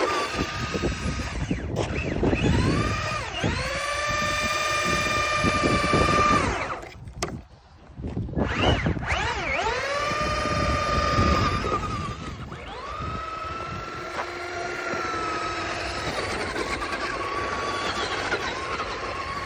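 RC car motor whining under throttle: its pitch climbs to a steady whine, holds, and falls away as the throttle is let off. This repeats several times, with a brief lull about seven seconds in.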